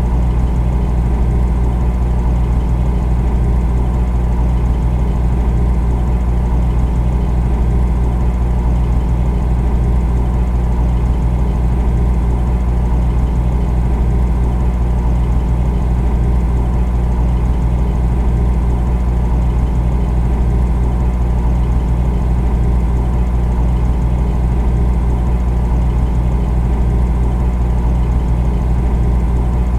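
Refrigerator compressor running with a steady low hum.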